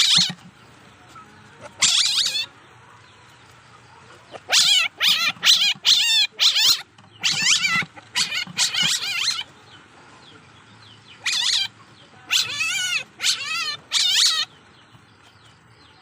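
Young Asian palm civet (musang) calling: about a dozen high, wavering cries, each under a second long, coming in bunches with short quiet gaps between them.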